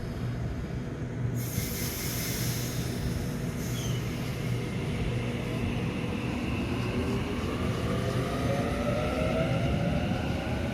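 Sydney Trains electric passenger train running through the station, with a short hiss about a second in. From about halfway, a whine rises steadily in pitch, typical of the traction motors as the train accelerates away.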